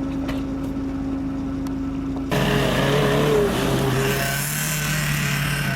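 Off-road 4x4 engine running steadily. About two seconds in, the sound cuts abruptly to another, louder engine running, with a wavering higher tone above it for a moment.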